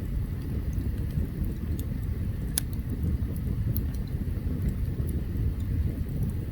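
Open campfire burning: a low, steady rumble with scattered sharp crackles and pops, the loudest about two and a half seconds in.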